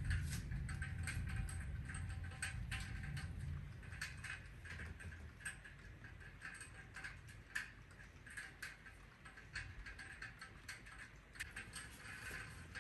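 Heavy typhoon rain tapping and dripping irregularly on a hard surface, with a low rumble that fades away about five seconds in.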